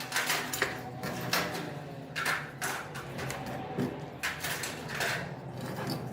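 A series of short scrapes and knocks, about one or two a second and irregular, over a steady low hum.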